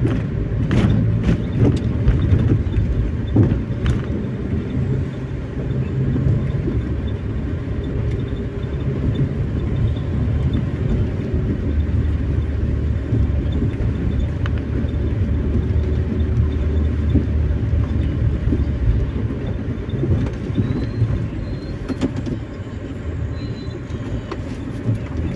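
Steady low rumble of engine and tyre noise heard from inside a vehicle cabin while driving.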